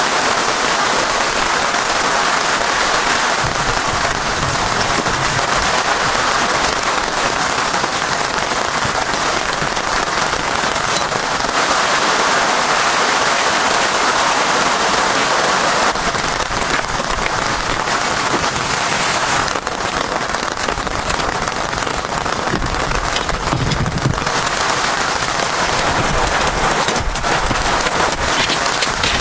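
Steady heavy rain, with many separate drops ticking on a surface.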